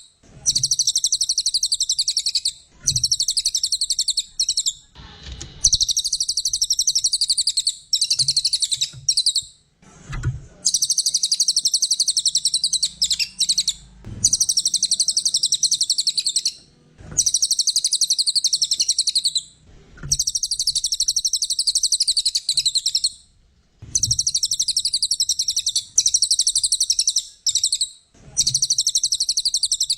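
Brown cililin (cililin coklat) singing: long phrases of rapid, high trilled chatter lasting several seconds each, broken by short pauses, about eight phrases in all.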